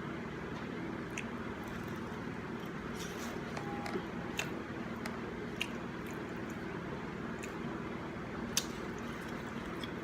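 A person eating king crab close to the microphone: wet chewing and squishing, with scattered sharp clicks now and then, over a steady low hum.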